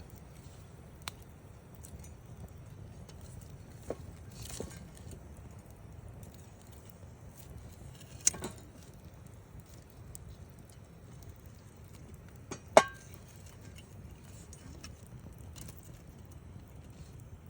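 Wood campfire burning, with a low steady rumble under scattered sharp pops and crackles from the burning wood; the loudest pop comes about thirteen seconds in.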